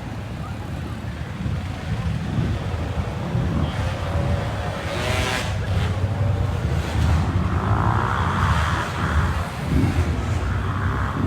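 Motorcycle engines running with a steady low rumble, with a brief rise and fall in pitch about five seconds in, like one bike revving or passing.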